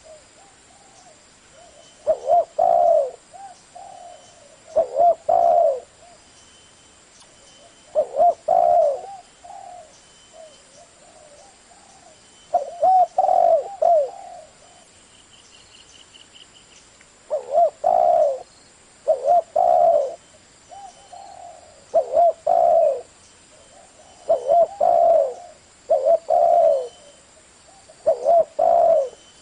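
Spotted dove cooing: loud phrases of two or three deep coos repeated every two to four seconds, with softer single coos in between.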